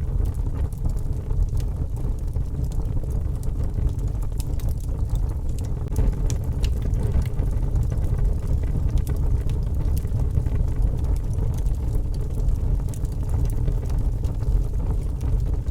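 Wood fire crackling with frequent small sharp pops over a steady low rumble.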